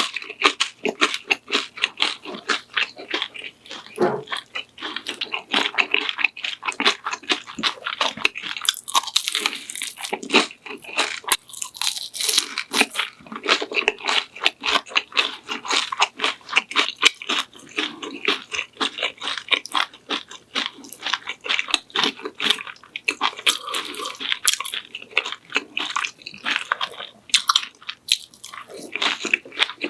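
Close-miked eating: a continuous run of crunching and chewing of food.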